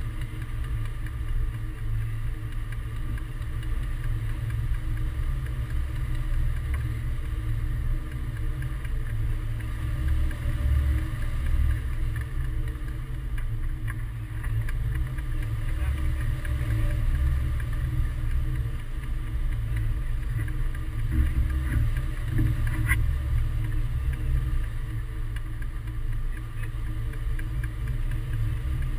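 Wind rushing and buffeting over the microphone during a hang-glider flight: a steady, heavy low rumble that swells and eases.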